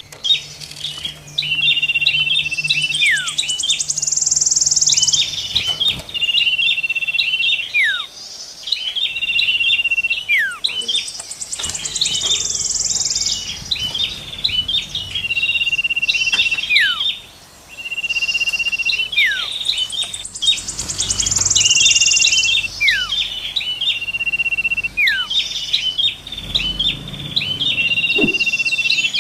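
Songbirds calling over and over: long level whistles broken by quick chirps, each run ending in a falling whistle, and every several seconds a high buzzy trill.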